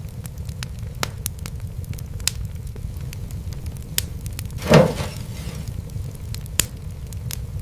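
Wood fire crackling over a steady low rumble, with scattered sharp pops and one louder, longer snap a little before five seconds in.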